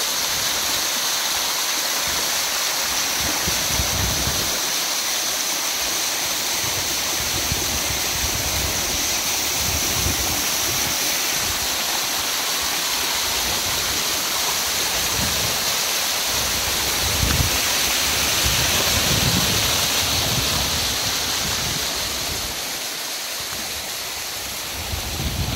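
Rainwater rushing in a steady hissing flow, with irregular low rumbles underneath.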